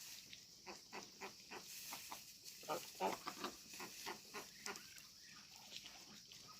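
Pigs grunting, a quick irregular run of short grunts that is busiest about halfway through.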